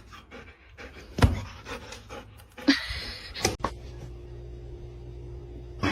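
A dog panting in short breathy bursts, with a few light clicks and knocks.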